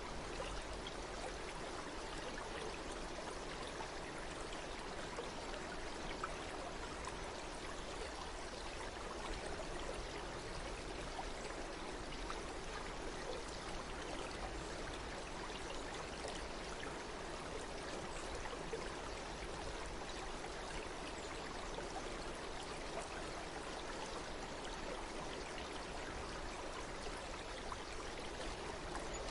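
Running water flowing steadily, with no change in level.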